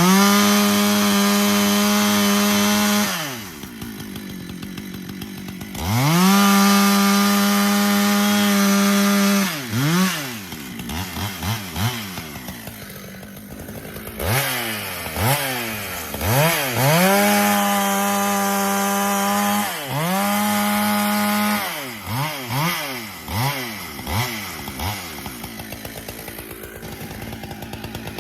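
Husqvarna 395XP's 94 cc two-stroke chainsaw engine held at full throttle in four long bursts while bucking wood, with quick throttle blips and idling between them.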